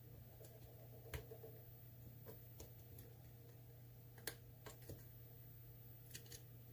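Lock pick working in the keyway of an ASSA Twin Combi pin-tumbler cylinder, giving a scattering of faint, irregular clicks as the pins are probed, over a steady low hum.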